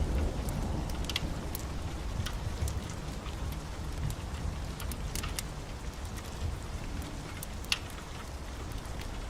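Steady heavy rain with a low rumble of thunder dying away over the first few seconds. Scattered sharp ticks of drops or crackles come through, one louder near the end.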